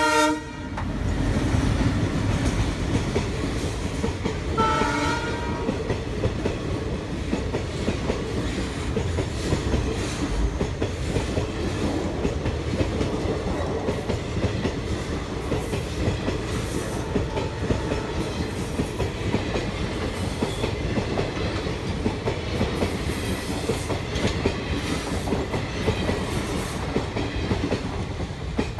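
Express train hauled by an ALCO WDM3D diesel locomotive passing at speed, a steady rumble with the wheels clattering over the rail joints. A brief horn note sounds about five seconds in.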